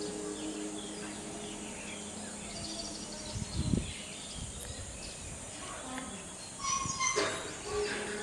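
Several small birds chirping and calling over a steady natural background hiss, with a louder burst of calls about seven seconds in and a brief low bump a little before halfway.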